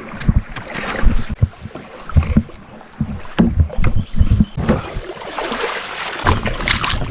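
Kayak being paddled through shallow water: paddle strokes splashing, with irregular knocks and thumps.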